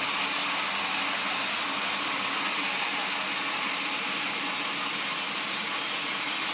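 Sawmill machinery running steadily: an even, hissing noise with a faint low hum underneath.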